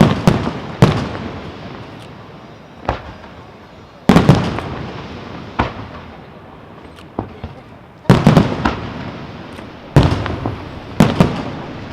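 Aerial fireworks shells bursting in loud bangs, in clusters a few seconds apart, with smaller pops between them. Each bang trails off in a long echoing rumble.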